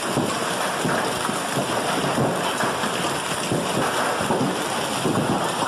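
Heavy rain pouring steadily onto a wet street, a dense hiss of many small drop hits.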